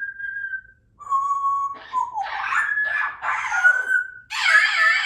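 Congo African grey parrot whistling a run of held notes, some dropping in pitch, mixed with harsh raspy calls; the loudest call comes near the end.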